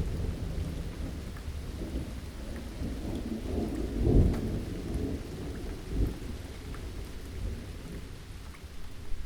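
Steady rain with rumbling thunder, the rumble swelling to a peak about four seconds in and again briefly around six seconds.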